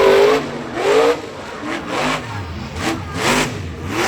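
Monster truck engine revving hard in repeated bursts during a freestyle run, its pitch rising and falling about once a second.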